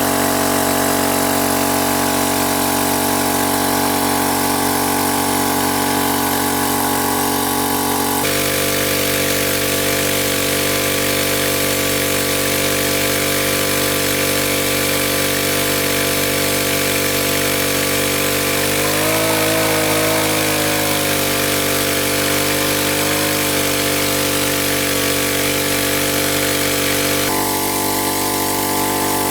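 A small engine running steadily, with its pitch dipping briefly and recovering about two-thirds of the way through.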